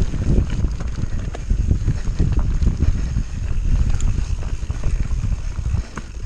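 Enduro mountain bike descending a rough, wet trail, heard from an onboard camera: wind buffeting the microphone and tyre rumble, with the rattle and clicks of the bike jolting over the ground.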